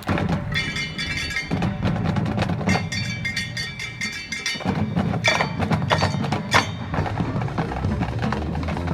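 High school marching band performing, percussion to the fore: drum and wood-block strokes with ringing metallic mallet notes over sustained low band tones.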